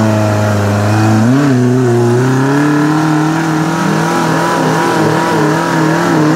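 Suzuki Jimny engine revving hard under load, bogged in deep mud. Its pitch dips briefly about a second in, then climbs and holds higher with a slight wavering.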